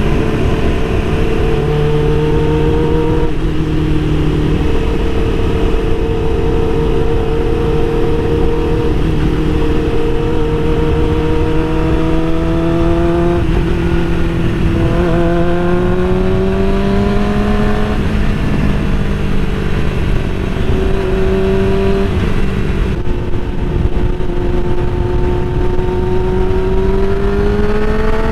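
Heavy wind noise on the microphone over a Suzuki GSX-R600's inline-four engine under way; the engine pitch climbs slowly and drops back several times as the rider changes gear.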